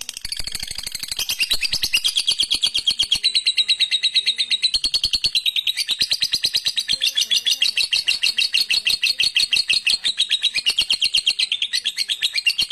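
Lovebird chattering in one long unbroken run of very rapid, high chirps, the kind of song recording played to young lovebirds to train their song.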